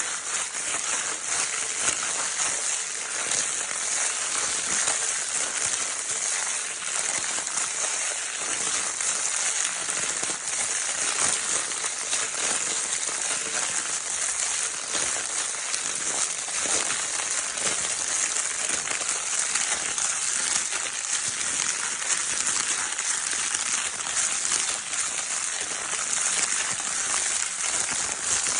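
Baby crinkle paper toy being crumpled and rustled without pause: a dense, steady crackle of many small crinkles.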